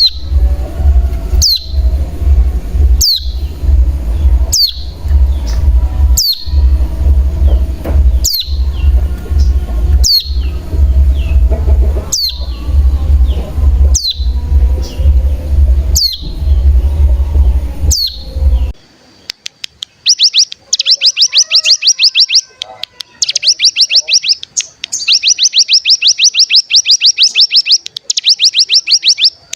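Recorded ciblek gunung (mountain prinia) lure song. First come sharp, high call notes sweeping downward, one every second or two, over a low rumble. After a cut about 19 s in come long, rapid rattling trills, the 'ngebren' song that the lure is meant to set off in other birds.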